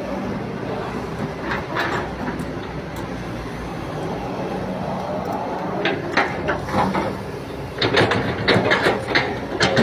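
Diesel truck engine with an 'umplung' turbo exhaust, running steadily. In the second half it gives a rapid series of sharp bursts, loudest near the end.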